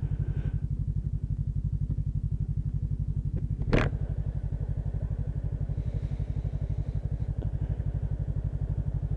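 Motorcycle engine idling with a steady, rapid, even throb, and a single sharp click a little under four seconds in.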